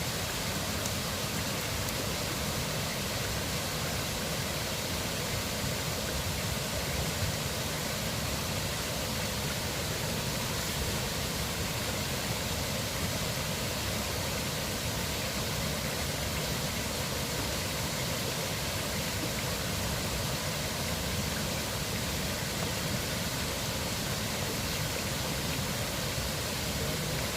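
River water flowing with a steady, unbroken rushing sound.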